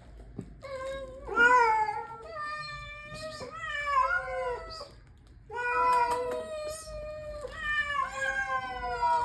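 Street cats meowing for food: long, drawn-out meows with bending pitch, one after another. There is a short pause a little past the middle.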